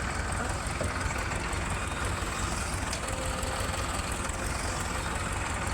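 Heavy diesel engine running steadily with an even low pulse.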